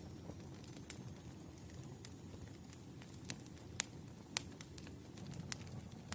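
Wood fire crackling: irregular sharp pops and snaps of burning logs over a low, steady background.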